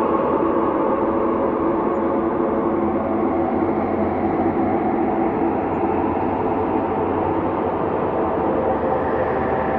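Ambient space drone: a steady, continuous hum of layered sustained tones over a noisy wash, slowly shifting in pitch and colour with no rhythm or breaks.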